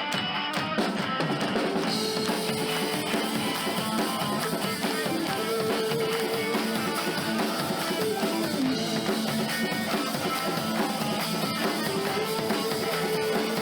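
A live rock band with guitar and drum kit playing a song's instrumental intro, before the vocals. The sound gets fuller about two seconds in as the drums come in.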